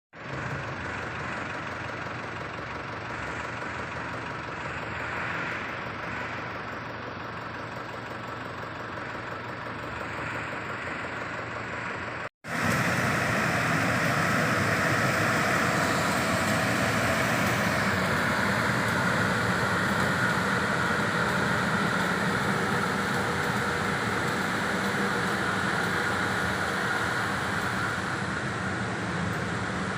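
Engine of a Turbo T600 pesticide spraying machine running steadily. After a cut about twelve seconds in it is louder, with a strong rushing hiss over the engine note.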